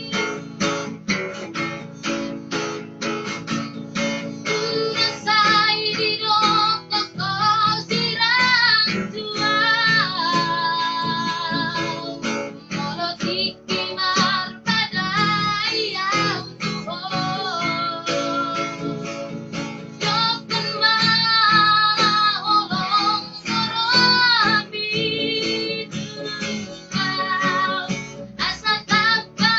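A high singing voice holding long notes with vibrato, accompanied by a strummed acoustic guitar.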